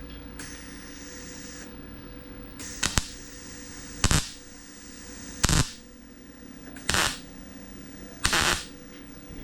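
A MIG welder laying five short tack welds on thin sheet-metal body panel, each a brief crackling burst, about one every second and a half. Near the start there is a hiss of about a second before the tacks.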